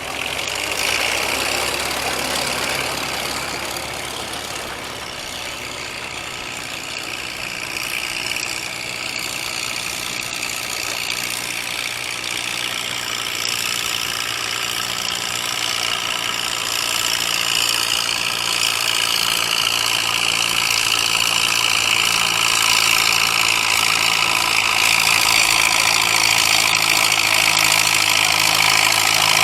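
Tractor engine idling, growing gradually louder.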